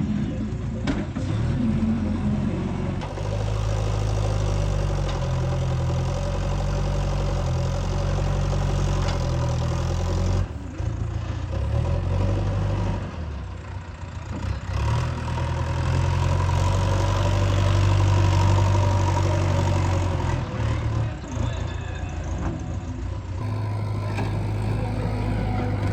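Diesel engine of a JCB backhoe loader running at work, with its speed and load rising and falling and a few brief dips.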